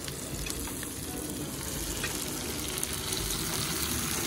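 Pork belly, tofu and vegetables sizzling steadily on an electric non-stick grill pan, with a few light clicks as tongs turn the food.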